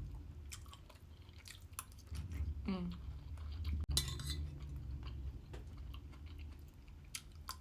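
A person chewing food close to the microphone, with a few light clicks and clinks of cutlery against a dish.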